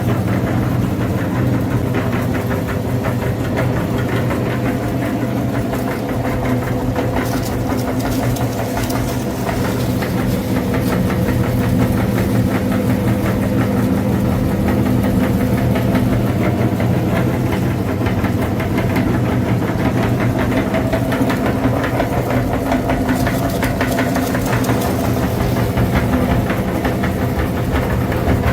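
A mini tractor's engine running steadily with a rapid knocking beat.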